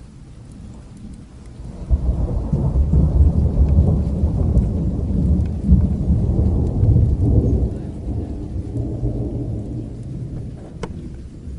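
A long rolling thunder rumble that starts suddenly about two seconds in and slowly dies away, over steady rain. A few faint crackles sound near the end.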